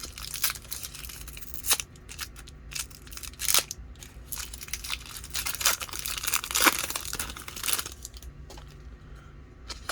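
Foil wrapper of a Pokémon booster pack being torn open and crinkled: a continuous run of crackles, with a few sharper rips.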